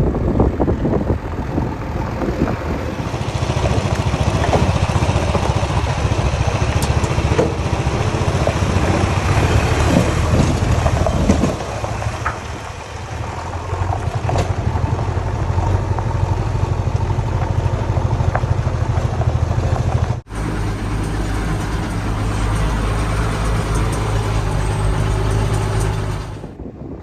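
A JCB 3DX backhoe loader's diesel engine runs steadily, with scattered knocks and clatter over it. The engine note changes about eleven seconds in, and the sound breaks off for an instant about twenty seconds in.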